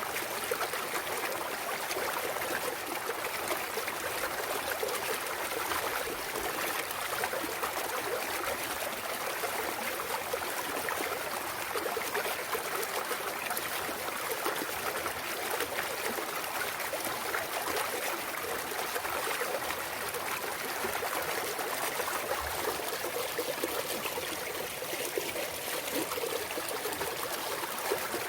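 Clear mountain valley stream flowing and trickling over rocks: a steady, even water sound.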